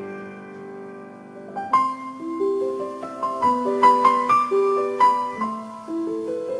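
Background piano music: a held chord fades out, then a slow melody of single struck notes begins about a second and a half in.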